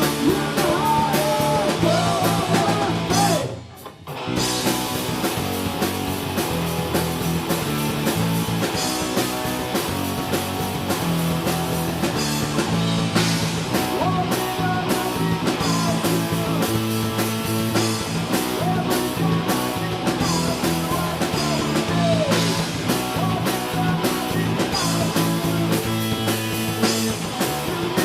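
Live punk rock band playing: distorted electric guitars, bass and drum kit, with vocals. The band stops dead for a moment about three and a half seconds in, then comes back in.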